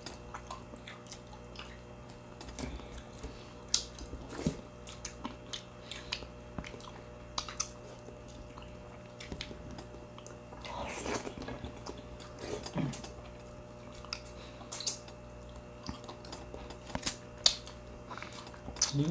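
Close-miked mukbang eating sounds: irregular chewing, biting and wet mouth clicks, with a louder stretch of wet eating noise about eleven seconds in.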